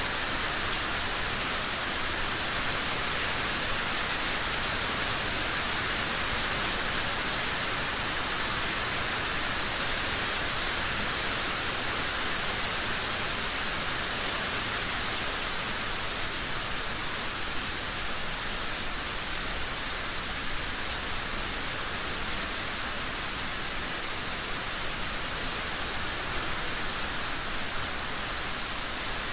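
Heavy rain falling steadily: an even hiss with faint scattered drop sounds.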